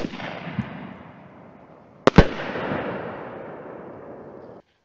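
Blast Master 24-shot canister shell firework cake going off in its promo video: a sharp bang at the start and a close double bang about two seconds in, each followed by a crackle that fades away.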